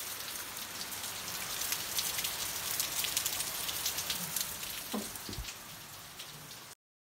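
Steady rain falling on a garden's stone paving and foliage: a dense hiss full of small drop patters. About five seconds in a brief falling tone passes, and the sound cuts off suddenly near the end.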